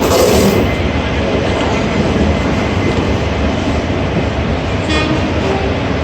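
Passenger train coaches rolling along the rails, a steady loud rumble of wheels and carriages with some clickety-clack. A short hiss comes right at the start and a brief metallic squeal about five seconds in.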